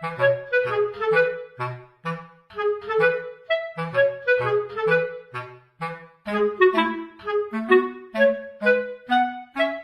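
Background music: a bouncy, playful tune of short staccato notes on a clarinet-like woodwind over a plucked bass line.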